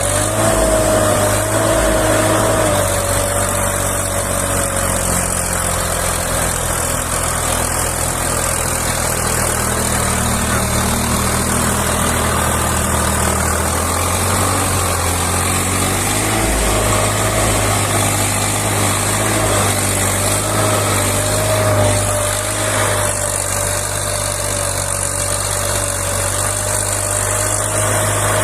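Tractor engine running steadily, with a wavering high whine over the low engine note.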